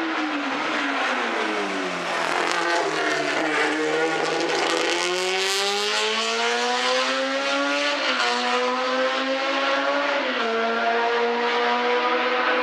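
A racing car engine running hard. It slows with a falling pitch for the first few seconds, then accelerates, the pitch climbing and dropping sharply twice at upshifts.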